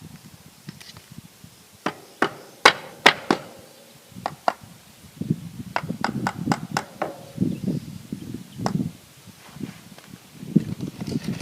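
Hammer knocks on wood, about eight sharp strikes in quick irregular succession, followed by a stretch of rough scraping and rustling as material is handled.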